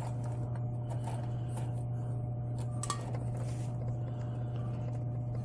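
A few faint, light clinks and taps over a steady low hum.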